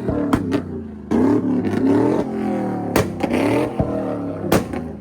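Car engine revved repeatedly, the note climbing and dropping in pitch with each blip, punctuated by several sharp cracks.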